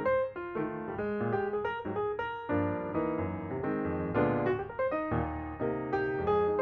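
Piano music: a steady run of single notes over lower chords, each note struck and decaying.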